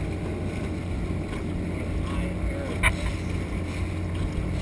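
Dinghy's outboard motor running steadily, with wind on the microphone. A single sharp knock comes about three seconds in.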